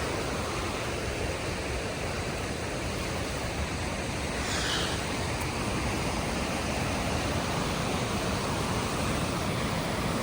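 Steady rush of a waterfall and fast, flooded creek water. A short, high sound that falls in pitch cuts through about halfway through.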